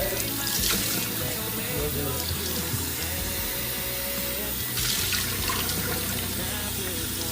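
Water running from a tap into a sink, with background music over it.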